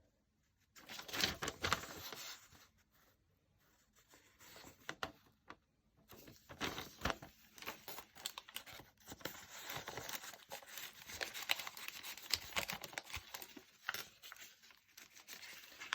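Paper rustling and crinkling as the pages and paper inserts of a handmade junk journal are handled and turned. There is a brief rustle about a second in, a mostly quiet spell, then near-continuous rustling through the second half.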